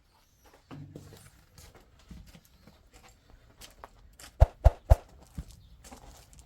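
Scattered light knocks and rustling, with three sharp knocks in quick succession about four and a half seconds in.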